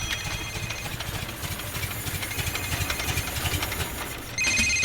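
A steady low rumble with a hiss over it. Near the end a telephone begins to ring with a steady electronic tone.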